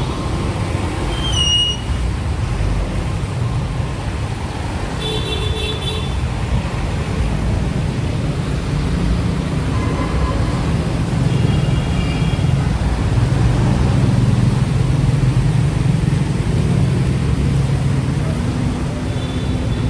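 Busy city street traffic: vehicle engines running steadily, with short horn toots about five seconds in and again around twelve seconds.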